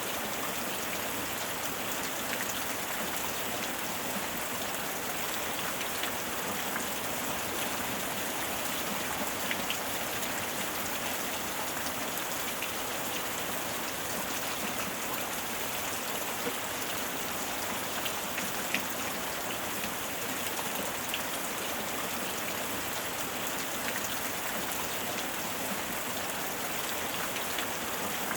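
Steady heavy rain falling and pattering on surfaces, a dense even hiss with scattered louder drops.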